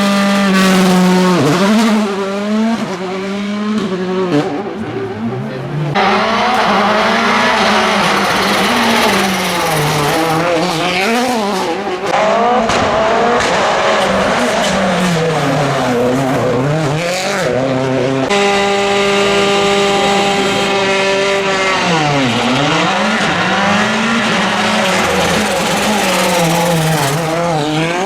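Rally cars driven hard on a stage, their engines revving up and down through the gears, the pitch rising and falling again and again over a series of passes.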